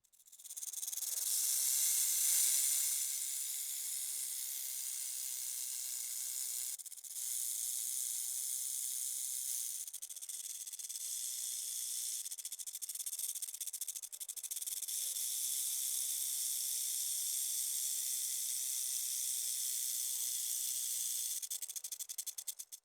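A steady high hiss with fine crackling through it, starting and stopping abruptly, with a brief dip about seven seconds in.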